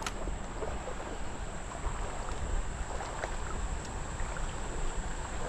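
Creek water moving around a wading angler, with wind rumbling on the microphone and a steady, high-pitched insect drone above it.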